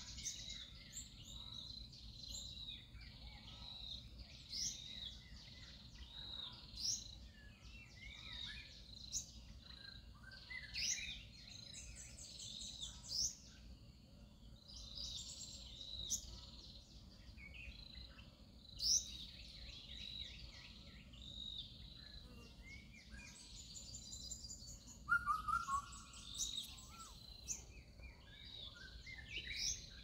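Several birds calling and singing at once: repeated short high chirps and whistled notes, with a few quick trills. Under them runs a faint, steady low background noise.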